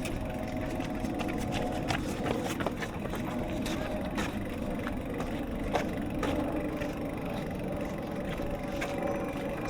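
Street noise heard from a moving bicycle: a steady low rumble with scattered clicks and a faint steady hum.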